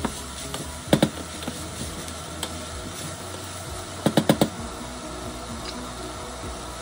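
Wooden spatula stirring rice and diced vegetables frying in a stainless steel pot, with a light sizzle. Two sharp knocks about a second in and a quick run of four knocks a little past halfway, from utensil against the pot.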